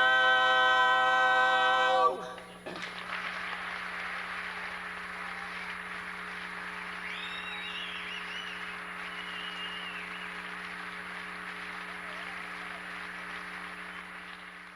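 A barbershop quartet's final chord held a cappella, cut off sharply about two seconds in, then loud audience applause with a few whistles.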